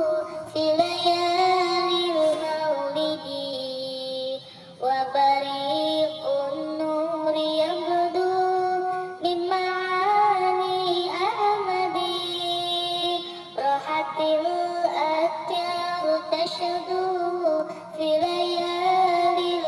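A sholawat, an Islamic devotional song, sung in a high voice over music. It is sung in long held phrases that break off every four to five seconds.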